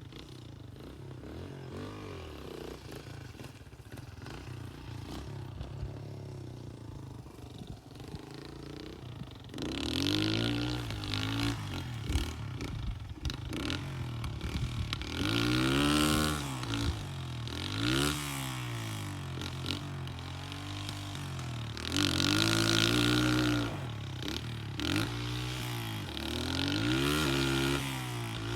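Dirt bike engine running quietly at first, then from about ten seconds in revving up and down over and over, its pitch repeatedly rising and falling with several louder bursts.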